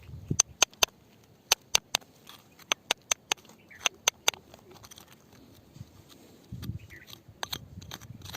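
Hard objects tapping and clicking on rock as it is picked and chipped at: sharp, irregular clicks in quick clusters of two or three, growing sparser after about five seconds, with a brief low rumble near the end.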